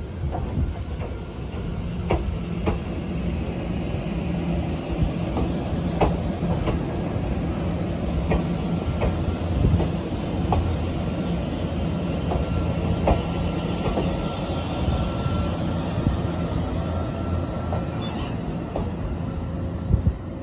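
Nankai 7100-series electric trains pulling into a station and braking to a stop: a steady low running hum, wheels clicking over rail joints, and a faint brake squeal. A short high hiss comes about ten seconds in.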